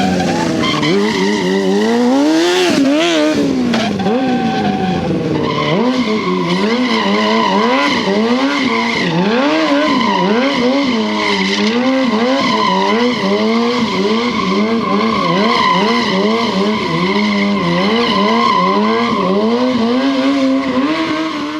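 Kawasaki ZX-6R sportbike's inline-four engine revving up and down over and over, about once or twice a second, with a steady high squeal from the tyre sliding on the pavement.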